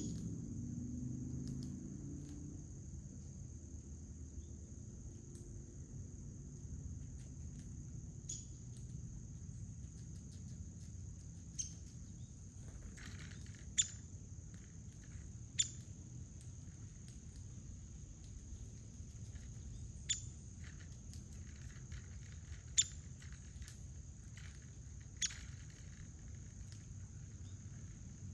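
Steady high-pitched chorus of insects, such as crickets, over a low outdoor rumble, with about eight sharp clicks or taps at irregular moments, most of them in the second half.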